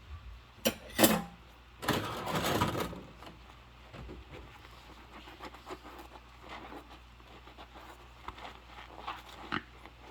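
Dishes being handled in a sink by hand: two sharp clinks a little under a second in, then about a second of noisy rushing from the washing, followed by faint scattered knocks.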